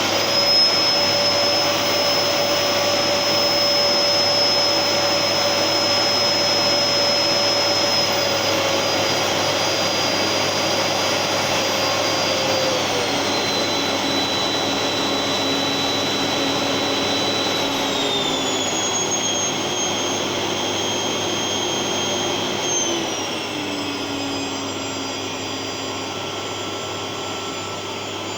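Gerer8 Power MAX 2000W vacuum cleaner motor running loud at its highest setting, then turned down with its speed dial: after about eight seconds the whine drops in pitch in four steps and gets a little quieter as it heads toward its lowest setting.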